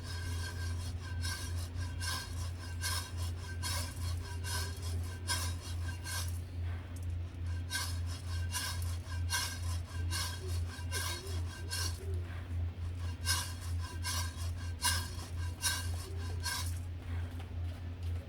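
Coffee beans being roasted, stirred or shaken so they scrape and rattle against the roasting vessel in repeated strokes about two a second, with a couple of short pauses. A steady low hum runs underneath.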